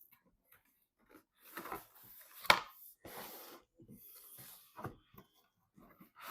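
Hands handling PC components: short rubbing and scraping sounds, a sharp click about two and a half seconds in, and a duller knock near the end.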